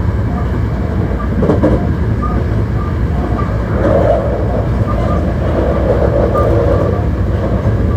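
Hankyu 1300 series electric train running at speed between stations, heard from inside the car: a steady rumble of wheels on rail, with some swells in the noise about halfway through.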